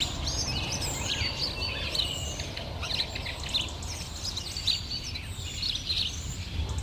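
Birds chirping in the trees: many short, quick calls and whistles, some sliding in pitch, over a steady low rumble of background noise.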